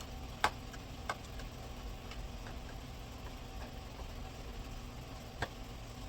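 A few sharp clicks of hand tools and parts being handled during car repair work: the loudest about half a second in, another a moment later and one near the end, with faint ticks between, over a steady low hum.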